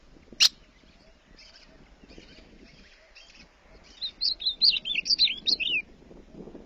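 A songbird singing a quick run of high, warbling notes lasting about two seconds, with a single brief sharp note about half a second in and faint chirps around it.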